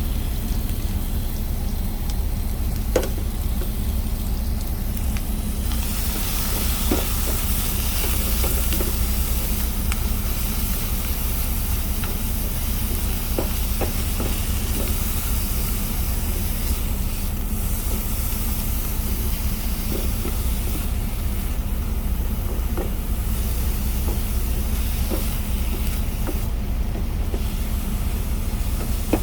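Vegetables sizzling as they are stir-fried in a pan, with a hiss that grows louder about six seconds in and scattered light clicks of the utensil against the pan. A steady low rumble runs underneath.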